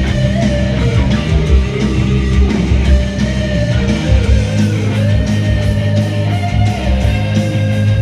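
Heavy metal instrumental passage: an electric lead guitar plays a melody of long held notes with bends, over rhythm guitar, bass and drums with steady cymbal hits.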